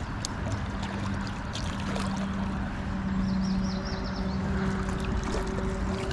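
Creek water running steadily, with a low steady hum under it and scattered small clicks. A brief high warble comes a little past halfway.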